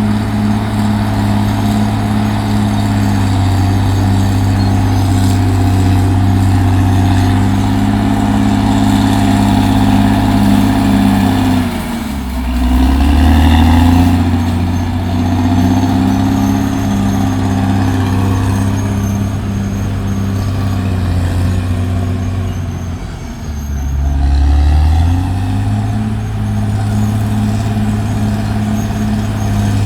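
CAT D6R XL crawler bulldozer's diesel engine running steadily. Its pitch drops and recovers twice, about twelve seconds in and again about twenty-three seconds in.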